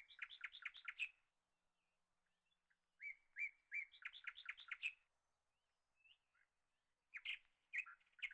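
A small bird singing faintly: three short phrases, each a few separate notes running into a quick string of chirps, about three to four seconds apart.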